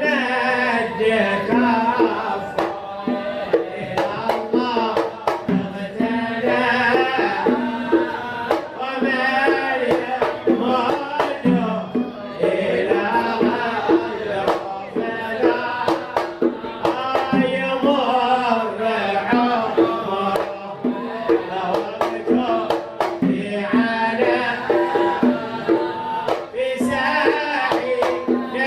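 Male voices singing a devotional sama' chant with wavering, ornamented melody, accompanied by steady hand-drum strokes.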